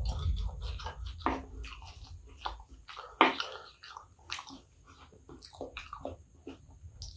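Close-miked wet chewing and mouth smacking of a mouthful of kottu roti, with a plastic spoon scraping and scooping into the pile; a sharp click about three seconds in and a low rumble in the first two seconds.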